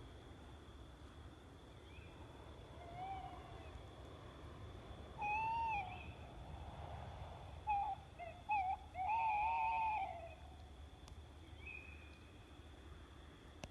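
Tawny owl hooting its song: a long hoot, a pause, then a few short notes and a long wavering hoot. A fainter hoot comes a few seconds before, and a faint steady high tone lies under it all.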